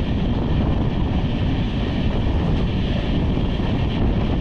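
Wind rushing over a phone microphone held out of a moving passenger train, over the steady running noise of the coaches on the track.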